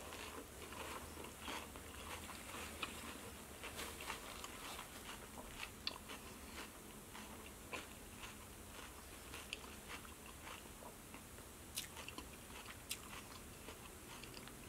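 Faint close-miked chewing of a mouthful of pasta e fagioli soup, with scattered small mouth clicks.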